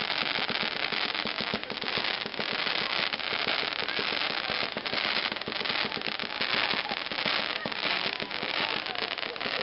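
Fireworks crackling: a dense, continuous stream of small pops and crackles with no single large bang.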